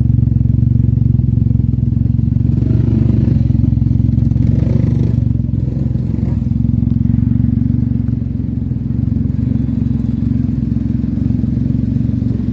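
Can-Am Ryker 900's Rotax three-cylinder engine idling steadily through an RLS Stealth aftermarket muffler with its baffle in: a deep, even exhaust note, a little quieter in the second half.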